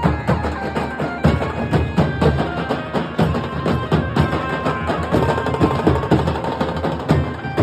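Nasik dhol drumming: a dense run of rapid drum strokes with a pitched melody line playing above them.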